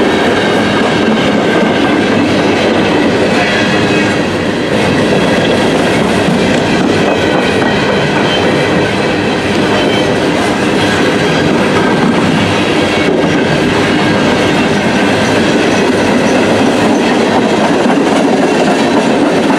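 Empty CSX coal hopper cars rolling past at close range: a loud, steady noise of steel wheels running on the rails, with faint high-pitched ringing tones over it.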